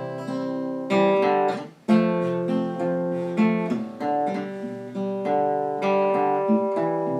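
Acoustic guitar playing a picked and strummed introduction, chords ringing with a short break about two seconds in.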